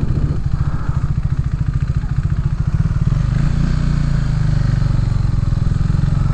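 Motorcycle engine running at low revs with a rapid, even exhaust pulse as the bike rolls slowly along. The note lifts a little about halfway through.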